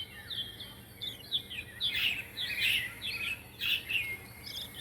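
Small pet birds chirping: many short, high chirps, several falling in pitch, coming in quick overlapping clusters.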